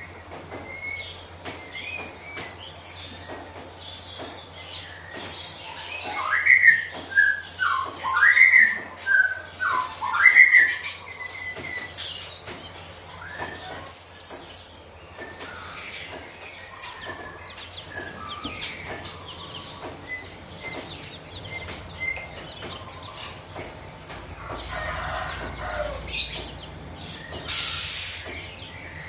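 Oriental magpie-robin calling and chirping, with a run of loud rising and falling calls from about six to eleven seconds in and a quick series of high notes a few seconds later.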